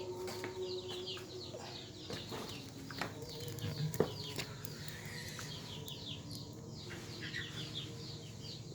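Birds, likely chickens or chicks, chirping in a rapid run of short, high, falling chirps, with two sharp knocks about three and four seconds in.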